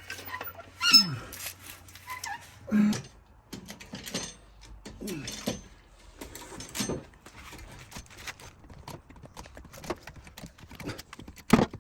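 Car jack being set under the jacking point and worked: irregular metallic clicks and clunks, with short creaks and squeaks in between.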